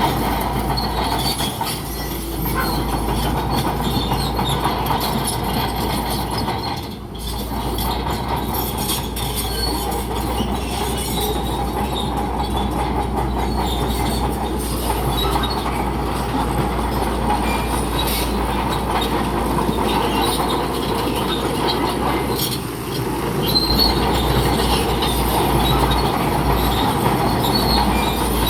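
Bulldozer working, its diesel engine running hard while the steel crawler tracks squeal and clank. The din eases briefly twice, about 7 seconds in and again near 22 seconds.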